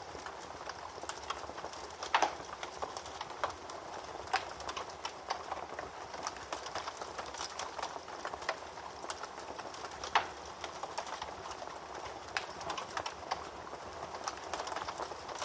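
Wood fire burning in a fireplace: a steady hiss with irregular crackles and pops, the sharpest pops about two seconds in and about ten seconds in.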